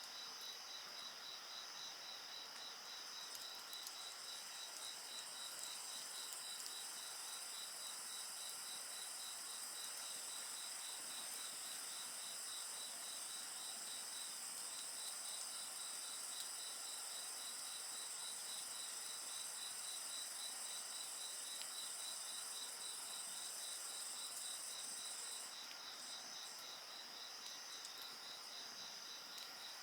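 Crickets and other insects calling in a steady chorus: one insect gives an even, regularly pulsed chirp, while a higher continuous trill joins about three seconds in and stops suddenly near the end. A few faint crackles from a wood fire are heard beneath them.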